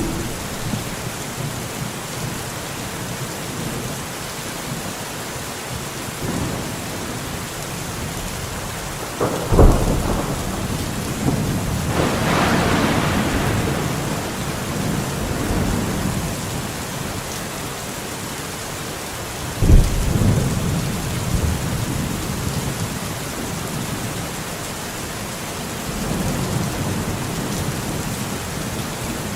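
Steady rain with thunder: a sharp thunderclap about a third of the way in and another about two-thirds in, each trailing off into a low rumble.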